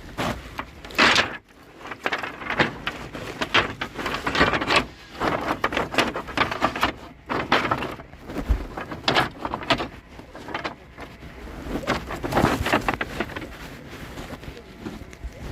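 Irregular knocking and clattering of wooden pieces being handled and knocked together, with rustling between the knocks.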